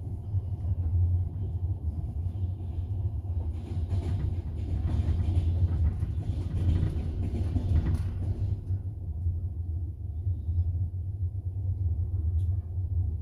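Double-decker passenger train running, heard from inside the carriage: a steady low rumble. A broader rushing noise swells from about four seconds in and falls away again near eight and a half seconds.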